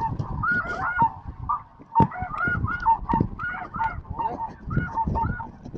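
Snow geese calling: a dense run of short, repeated high honks, many overlapping, with a low rumble underneath.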